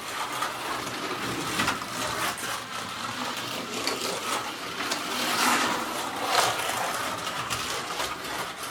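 Slot car running laps on a home track: the small electric motor whines and the car rattles along the track. The sound rises and falls as the car comes round, then drops away at the very end.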